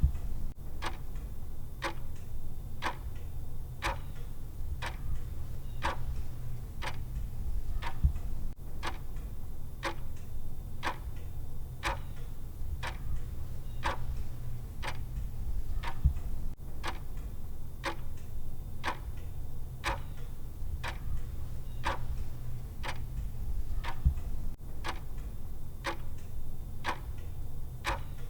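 Clock tick sound of a countdown timer, evenly spaced ticks at about two a second, over a steady low hum. A low thump comes about every eight seconds.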